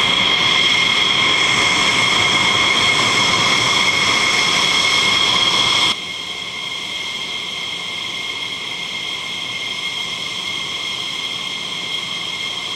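Jet engine running with a steady high whine over a loud rush, its pitch not changing; the level drops suddenly about halfway through.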